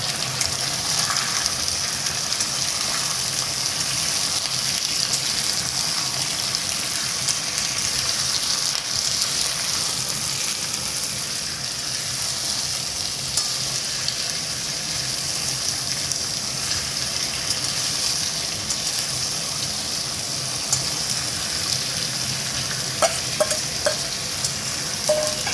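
Raw jackfruit and potato pieces sizzling in hot oil in a metal wok, a steady frying hiss. Near the end a metal spatula clinks and scrapes against the pan a few times as the pieces are turned.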